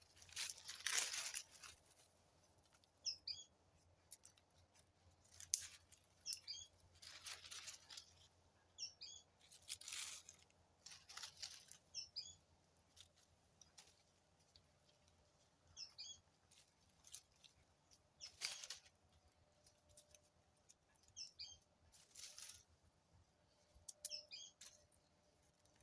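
A bird repeating a short phrase of a few quick high notes every two to three seconds. Seven or so brief, rough, hissing noises come in between, the loudest about a second in and near ten seconds.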